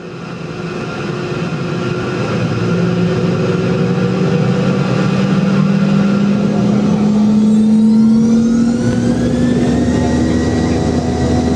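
The Boeing 717's Rolls-Royce BR715 turbofans heard from inside the cabin, spooling up. The sound builds in loudness, and from about seven seconds in a set of whines climbs in pitch; a low rumble joins near the end.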